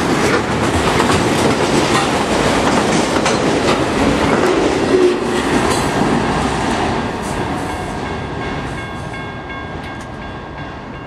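Autorack freight cars rolling past with clatter of wheels over the rail joints. About seven seconds in the train draws away and its noise fades, leaving steady ringing tones from the grade-crossing bell.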